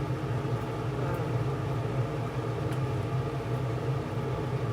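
Steady mechanical hum of a running motor, such as a kitchen appliance fan, with a couple of faint ticks.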